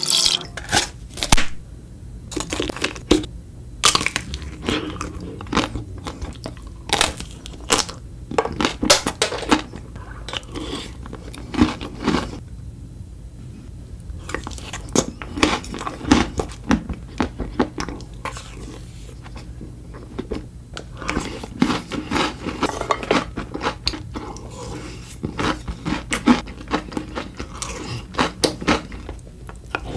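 Close-miked eating: crunchy chocolate balls and chocolate snacks soaked in chocolate milk being bitten and chewed. Irregular sharp crunches run throughout, some in quick clusters.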